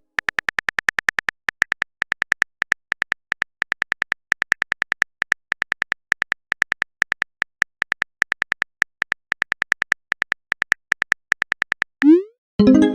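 A typing sound effect: rapid, slightly uneven clicks, several a second, each with a short high blip, as text is typed out letter by letter. Near the end the typing stops and a short rising swoosh leads into a pitched notification-like sound.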